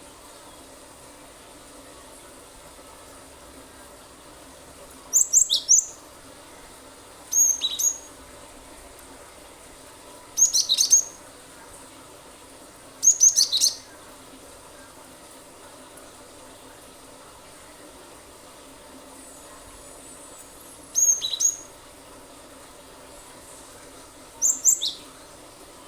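Cinereous tit (gelatik batu) singing in short, shrill, rapid-fire 'nembak' bursts: six quick phrases of high sweeping notes, four in the first half, then a long pause before two more near the end.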